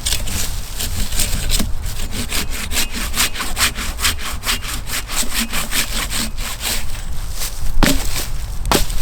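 Hand saw cutting through wood in quick, even back-and-forth strokes, about four or five a second. Two sharp knocks near the end.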